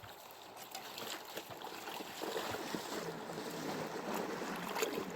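Water rushing and splashing, growing louder about two seconds in, with scattered knocks and clicks.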